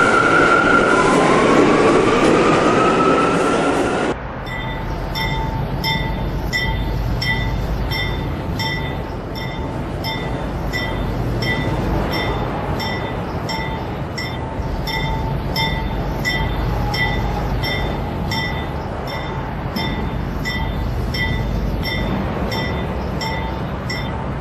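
Subway train pulling away, its motors giving a rising whine over loud running noise for about four seconds. Then an abrupt cut to a steady low rail rumble with a metallic ringing clink repeating evenly, roughly one and a half times a second.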